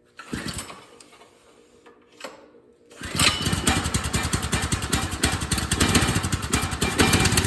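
Predator 212cc single-cylinder four-stroke engine on a lawn tractor starting: two short bursts, then it catches about three seconds in and runs steadily with rapid, even firing pulses.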